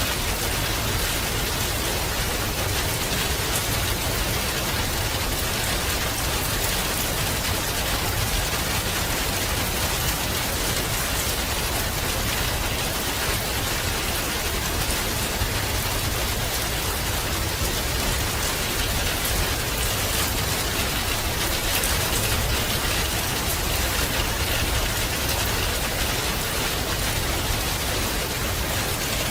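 Steady rain falling and pattering on a surface, an even hiss dotted with drop impacts.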